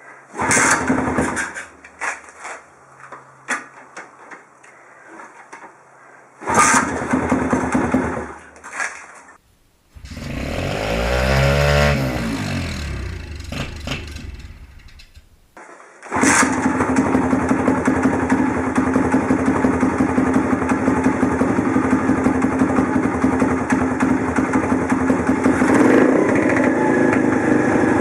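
A 124cc pit bike's single-cylinder four-stroke engine. It gives short bursts of sound over the first several seconds, rises and falls in pitch around the middle, then runs steadily from a little past halfway.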